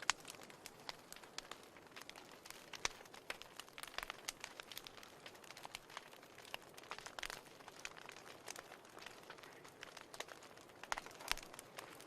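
Fire in a fireplace crackling: frequent irregular sharp pops over a faint steady hiss, with a louder pop right at the start and a couple more near the end.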